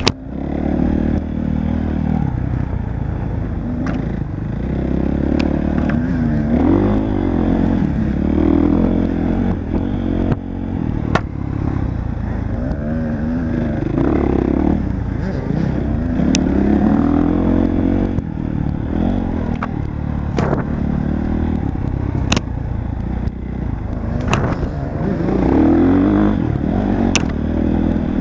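Off-road motorcycle engine riding a trail, its revs rising and falling over and over, with scattered sharp knocks and clatter.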